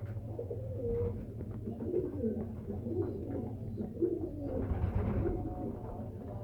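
Domestic pigeons cooing, several low, rolling calls overlapping one another.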